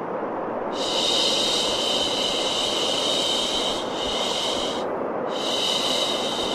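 Steady baby-soothing white noise, with a long shushing "shhh" laid over it twice, each lasting about three seconds.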